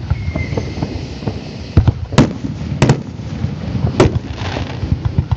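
Aerial fireworks shells bursting in sharp bangs: one about two seconds in, a quick double bang near three seconds and another about four seconds in, with smaller pops scattered between them.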